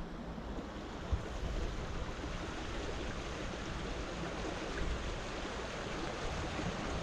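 Small stream running steadily, with wind rumbling on the microphone. A light knock about a second in.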